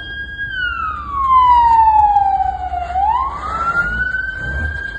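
Emergency vehicle siren wailing: a high tone held briefly, then sliding slowly down for about two and a half seconds, sweeping quickly back up about three seconds in and holding high again.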